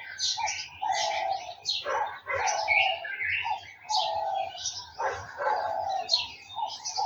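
Several garden birds chirping and calling together in a dense chorus of short high notes, with a lower call repeating about once a second underneath.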